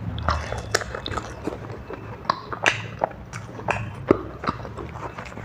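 Close-miked chewing and mouth sounds of someone eating curry pakode with puri and rice: irregular wet smacks and clicks, the sharpest about two and a half and four seconds in.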